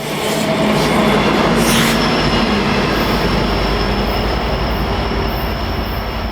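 A train passing on the railroad tracks, with a loud rumble of wheels on rail. A steady high wheel squeal joins in about two seconds in.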